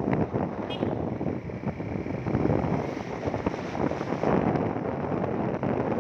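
Wind buffeting the microphone on a moving motorcycle, a dense fluttering rush with road and engine noise mixed in.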